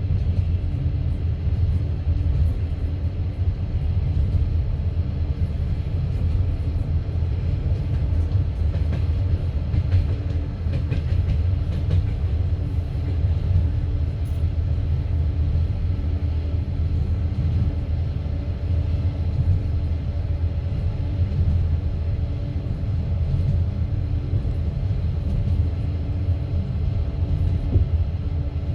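Steady rumble of a moving passenger train's wheels on the rails, heard from inside the carriage.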